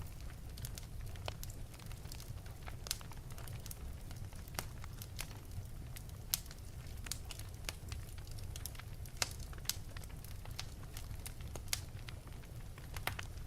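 Fire burning in an open fireplace, crackling with sharp, irregular pops, a few of them louder than the rest, over a steady low rumble.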